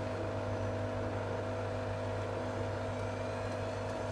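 Blomberg WMI7462W20 washing machine running with a steady motor hum and whir, quite noisy, as it works toward the spin on a load of towels.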